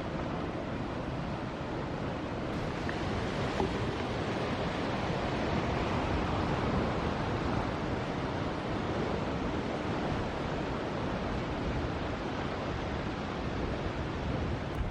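Ocean surf breaking and washing in: a steady rushing noise that swells slightly midway, with wind on the microphone.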